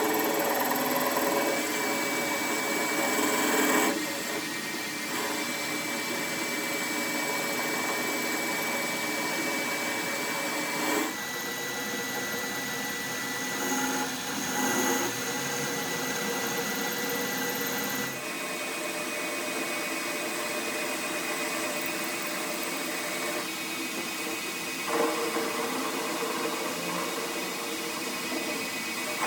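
Workshop power tools or machinery running steadily with a constant whine. The sound changes abruptly about 4, 11 and 18 seconds in.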